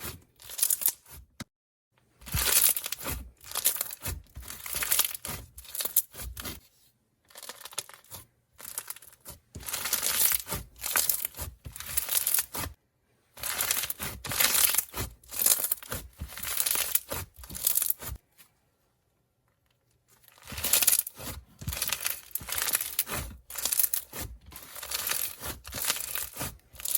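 Foam-bead slime being squeezed and pressed by hand, giving repeated bursts of crisp crackling and small bubble pops, with short silent pauses between handfuls.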